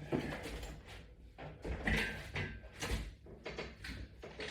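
A few irregular short knocks and scrapes from exercise equipment being handled and moved.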